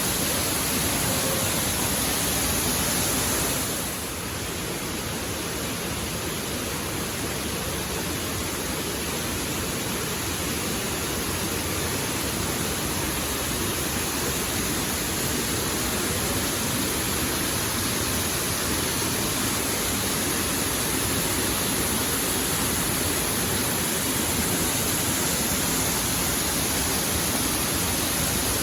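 Waterfall, falling water rushing in a dense, even hiss; it dips slightly about four seconds in and slowly builds back.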